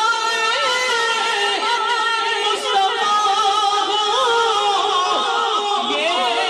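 Naat recitation: a voice singing long, wavering, ornamented notes without a break.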